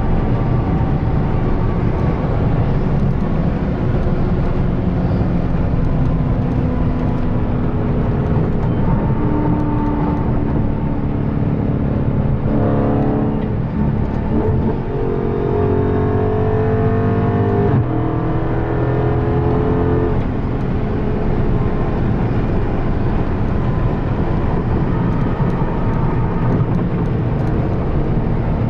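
Dodge Charger Scat Pack's 392 (6.4-litre) HEMI V8 driving at speed over steady road noise. About halfway through, the engine note climbs as the car accelerates, breaks once as if shifting, then settles back.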